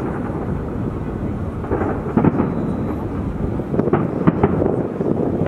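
A fireworks display going off in a continuous barrage of deep booms and bangs, with sharper reports about two seconds in and around four seconds in.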